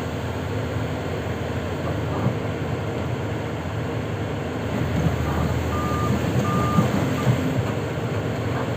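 Diesel engine of a Sany 500H excavator running steadily, with two short beeps of a warning alarm about six seconds in.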